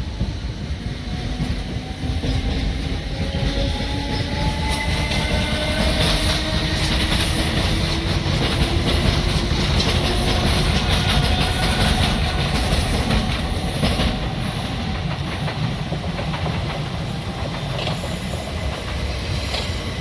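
A train running through the station with a steady low rumble. A whine slowly rises in pitch as it gathers speed, and there are scattered clicks of wheels over the rail joints.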